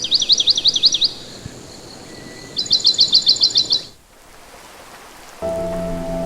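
A songbird singing two short phrases, each a quick run of repeated high, down-slurred whistled notes lasting about a second, over a steady background hiss. Soft sustained music comes in near the end.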